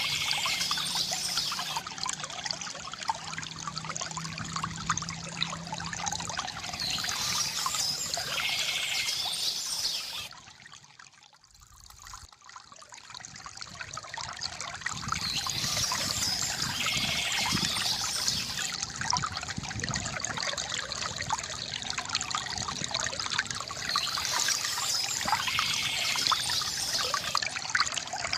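River water gurgling and trickling steadily, with bird chirps coming back about every eight or nine seconds. Around eleven seconds in, everything fades almost to nothing, then swells back up.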